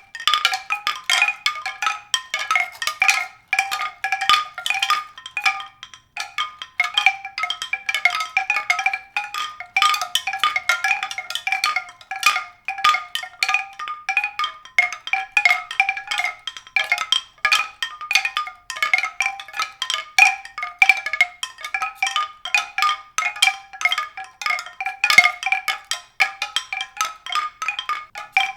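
A dense, irregular patter of short struck, ringing notes on a few repeated pitches, like tuned mallet percussion.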